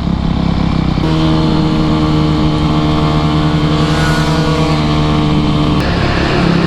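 Dirt bike engine running under the rider at a steady cruising speed, holding one even note for several seconds; near the end the note breaks up as the engine speed changes.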